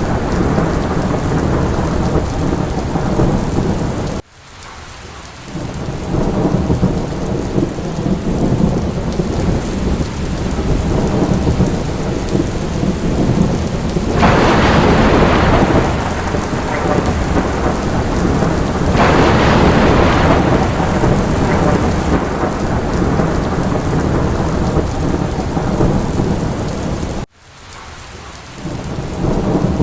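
Steady rain with a low, continuous rumble of thunder, swelling louder twice near the middle. The sound drops out abruptly twice and fades back in, like the seams of a looped recording.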